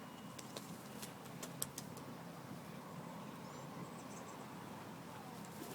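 Faint sharp clicks and taps in the first couple of seconds over steady outdoor background noise, with a brief high bird chirp about three and a half seconds in.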